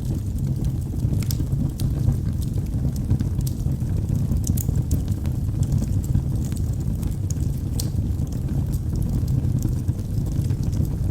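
Wood logs burning in a fireplace: a steady low rumble under frequent small, sharp crackles and pops.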